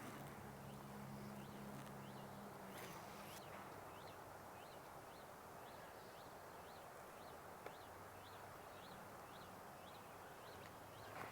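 A small bird's call: a faint, steady series of short, high chirps, about two a second, starting a few seconds in. Early on a low hum fades away.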